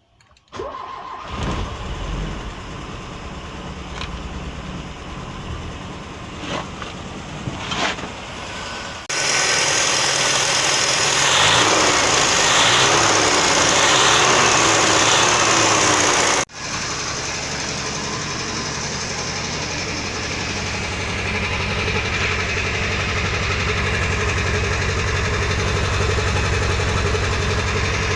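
Peugeot 504's carburetted petrol engine, suffering a hard-start problem, starting and running unevenly at first, then a louder stretch at higher speed. After a sudden break about two thirds of the way in, it settles to a steady idle.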